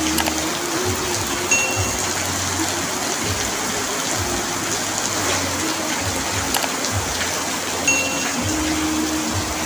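Heavy rain drumming steadily on an asbestos-cement roof, a dense, even hiss. A brief high note sounds twice, about a second and a half in and near the end.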